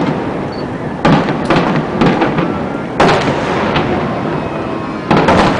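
Aerial fireworks shells bursting: several sharp booms in a row, each trailing off into a rolling rumble, with the last big boom near the end.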